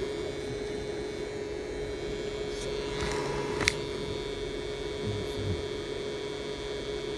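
Steady electrical hum from a truck-mounted power inverter running, with one sharp click about three and a half seconds in.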